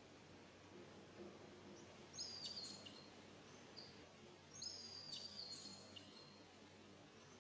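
Two short bursts of high-pitched bird song, about two seconds in and again near five seconds, each a held whistled note with quick chirps, over a faint outdoor background hush.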